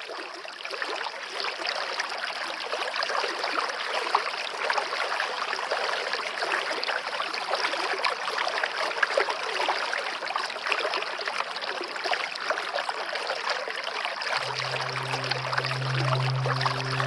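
Water of a stream running and splashing steadily. About three-quarters of the way through, a soft, low, sustained music drone fades in underneath.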